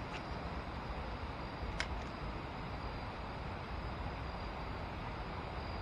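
Steady rushing of flowing river water, with one sharp click a little under two seconds in.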